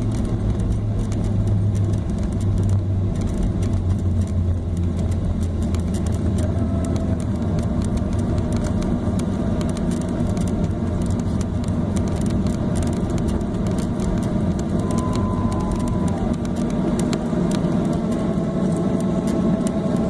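Cabin noise of a Boeing 737-800 taxiing after landing: the CFM56 engines' steady hum under a continuous rumble, the deepest part of the hum easing a few seconds in.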